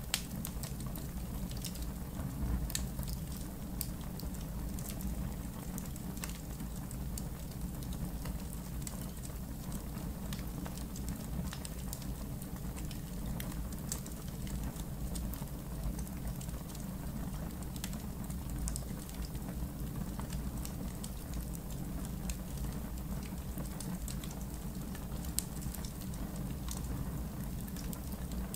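Campfire in a backyard fire pit crackling, with frequent sharp pops and snaps over a steady low rush of the flames.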